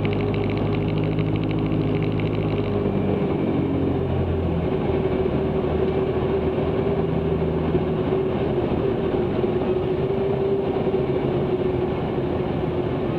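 Cessna 162 Skycatcher's four-cylinder Continental O-200 engine and propeller droning steadily in flight, heard inside the cabin; its low tones shift about three to four seconds in.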